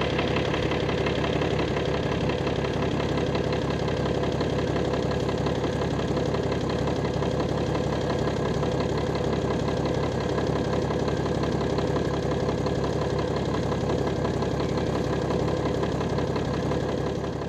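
Tractor engine and New Holland small square baler running steadily under load while baling hay. A continuous, even mechanical drone with no single bang or break.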